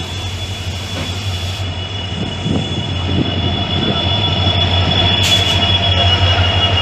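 Passenger train running on the rails, with a steady low rumble and a high, steady whine over it that grows slightly louder partway through.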